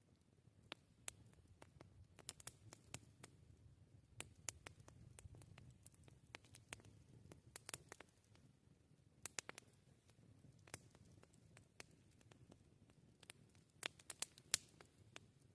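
Campfire crackling: burning wood giving off irregular sharp pops and snaps over a faint low rumble. The snaps come in denser clusters about nine seconds in and near the end, where the loudest pop falls.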